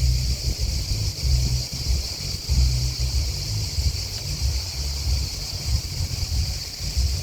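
Gusty wind buffeting the microphone as a loud, uneven low rumble, over a steady high-pitched chorus of chirping insects such as crickets and grasshoppers.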